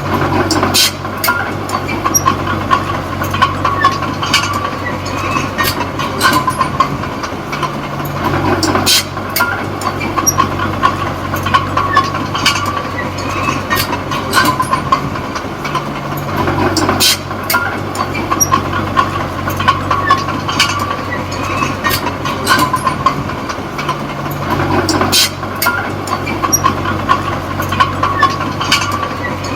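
Komatsu D20P bulldozer's diesel engine running as the machine works, its note swelling and easing in a regular cycle about every eight seconds. Sharp clanks from the tracks come throughout, over a steady whine.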